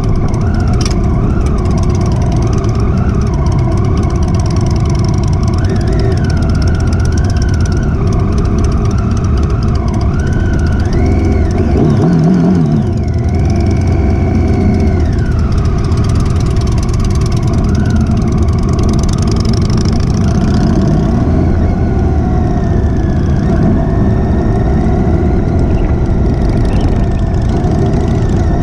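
Motorcycle engine running on the move, its pitch rising and falling with the throttle several times. There is a brief louder surge about twelve seconds in.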